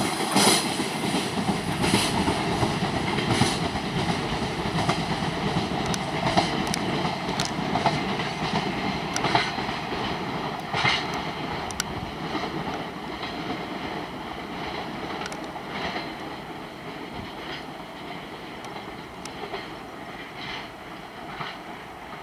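Freight train of container flatcars moving away: the wagon wheels click irregularly over rail joints over a rolling rumble, which fades steadily as the train recedes.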